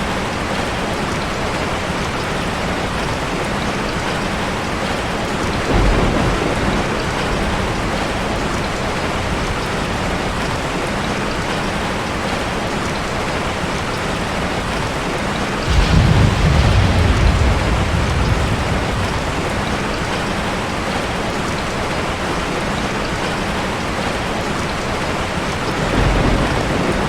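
Steady heavy rain with low thunder rumbling three times, the longest and loudest rumble about two-thirds of the way through.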